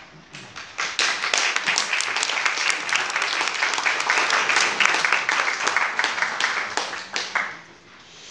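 Audience applauding after a piece of music, the clapping swelling about a second in, holding steady, then dying away near the end.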